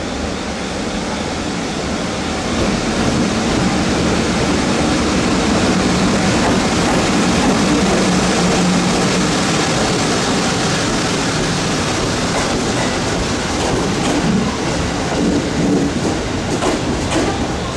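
An EF64 electric locomotive hauling a rake of 205-series commuter cars rolls into the station past the platform. It makes a steady rumble and wheel-on-rail noise that is loudest about halfway through as the locomotive passes, then clicks as the wheels cross rail joints near the end.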